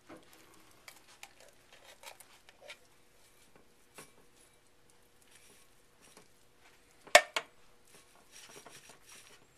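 Kitchen handling sounds as spinach is added to cheese and cracker crumbs: soft rustles and light taps, with two sharp knocks about seven seconds in as the loudest moment, then a short stretch of rustling.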